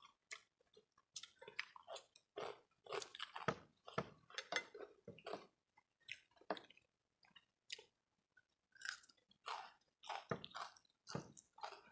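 Close-up chewing and mouth sounds while eating rice and curry: irregular wet smacks and soft clicks, a few per second, with short pauses.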